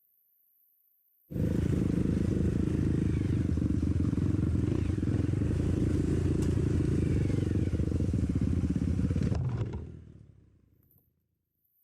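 Dirt bike's single-cylinder engine running with a fast, even beat, cutting in suddenly about a second in and dropping away near the end.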